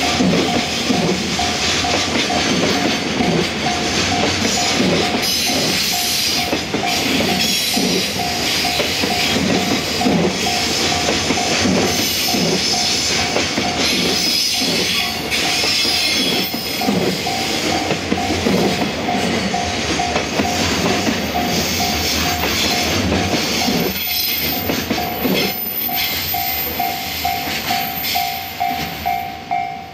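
Container flat wagons of a long freight train rolling past, their wheels clattering in a steady rhythm, with the tail of the train passing near the end. A thin pulsing tone, about two a second, sounds throughout and comes through more clearly as the train noise fades.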